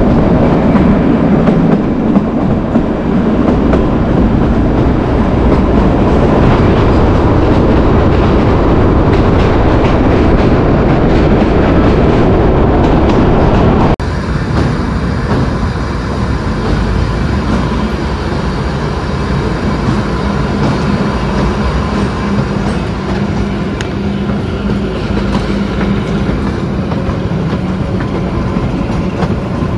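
Kalka–Shimla narrow-gauge toy train running, wheels clattering on the rails, heard from on board. The running noise is loud and dense at first, inside the long Tunnel No. 33 (Barog tunnel), then drops abruptly about halfway through to a quieter level.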